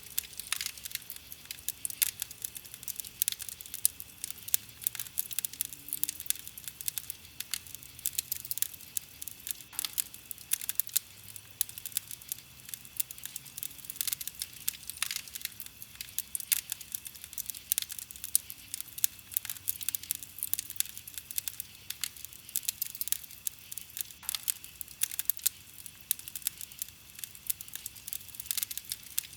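Campfire of burning wood crackling, with a steady run of irregular snaps and pops.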